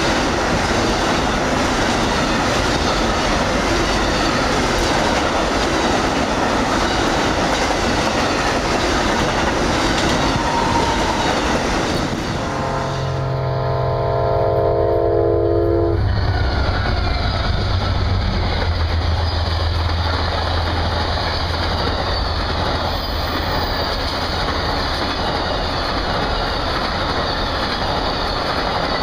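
Amtrak Auto Train autorack cars roll past with steady rail noise and clickety-clack of wheels over the rail joints. About twelve seconds in, a train horn sounds a chord of several notes for about three seconds. Then a diesel locomotive's low engine rumble passes, followed by Amtrak Superliner passenger cars rolling by.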